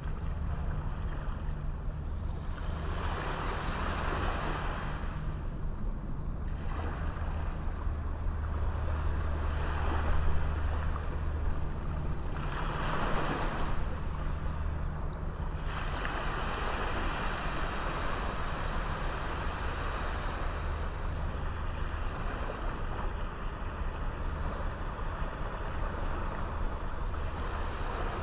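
Sea waves washing onto a small beach, surging and falling back every few seconds, over a steady low rumble.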